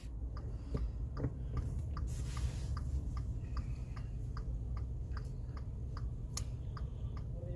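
A car's turn-signal indicator ticking steadily, about two to three ticks a second, over the low hum of the engine idling while the car waits at a red light.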